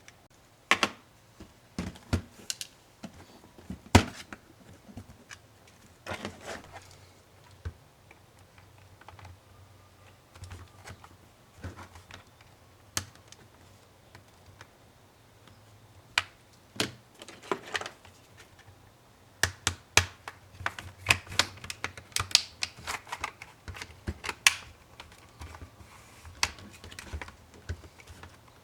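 Plastic laptop parts and small tools being handled during a teardown: irregular sharp clicks and taps, with a busier run of them about two-thirds of the way through.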